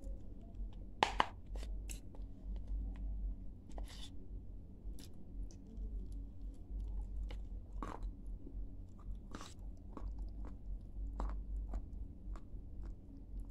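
A person chewing a mouthful of clay close to the microphone: wet mouth sounds with scattered crisp crunches, the sharpest about a second in.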